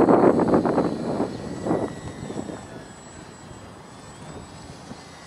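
Wind buffeting the microphone, fading out over the first two seconds, then the faint high whine of the E-flite Micro Beast's small electric motor and propeller, drifting slightly in pitch as the biplane flies.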